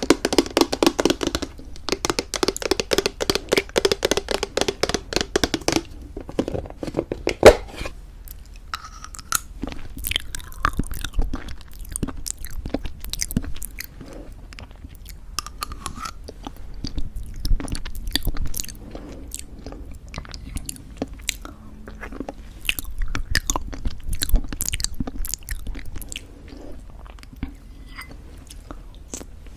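Close-miked chewing of crunchy homemade granola in thick yogurt: dense crunching for the first several seconds, then slower, quieter chewing with scattered small clicks. A single sharp click about seven seconds in is the loudest moment.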